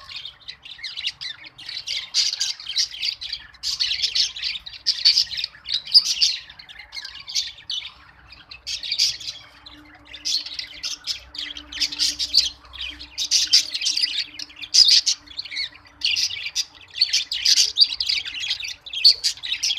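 Many small pet parrots, a mix of cockatiels, budgerigars and lovebirds, chattering with dense, overlapping chirps and squawks in bursts.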